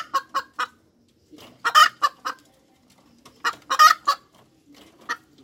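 Hen cackling: runs of short clucks, twice building to a louder, drawn-out squawk, with a last short cluck near the end.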